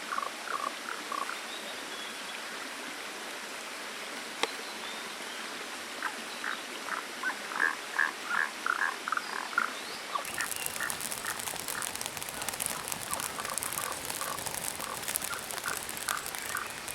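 Frogs calling in series of short, quickly repeated notes over the steady rush of a mountain stream. About ten seconds in, a dense crackling of sharp clicks joins in.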